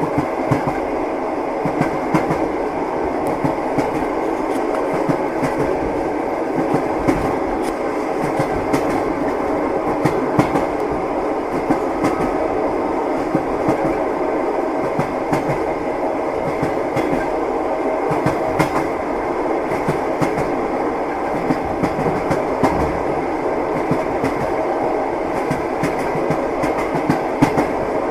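Train wheels knocking over rail joints with an irregular clickety-clack, over the steady rumble of a railway carriage running along the track.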